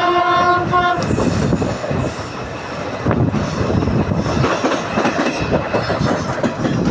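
Passenger train running up the ghat gradient, heard from inside a coach: a steady rumble and rattle of wheels on rail with irregular clattering. A locomotive horn is sounding at the start and cuts off about a second in.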